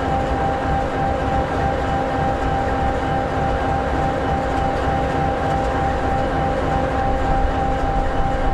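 EMD 16-710G3B sixteen-cylinder two-stroke diesel of an SD60E locomotive idling steadily: a low rumble with a steady whine above it.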